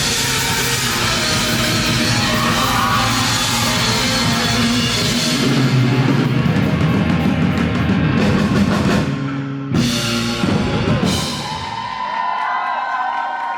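A rock band playing live with drum kit and distorted guitar, finishing a song: the full band cuts off about nine and a half seconds in, two final accented hits follow, and the last chord rings out as the crowd starts cheering near the end.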